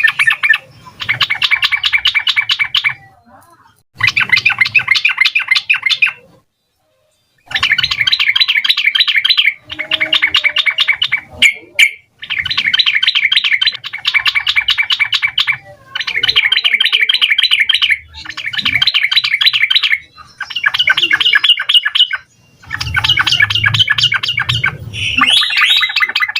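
Yellow-vented bulbul (trucukan) singing in a rapid, full chattering song. Bursts of quick bubbly notes, each lasting one to two seconds, are repeated again and again with short pauses between them.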